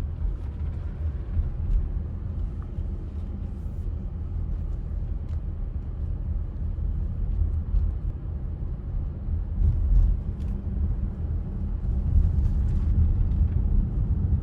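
A low, steady rumble that ends abruptly.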